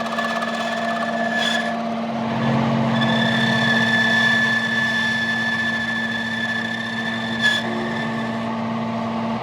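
A machine running steadily with a steady whine, a low hum that grows about two seconds in, and two short clicks.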